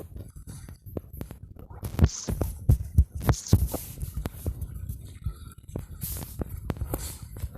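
Irregular muffled low thuds and knocks, neighbours' banging, heaviest around two to four seconds in, with some rustling above them.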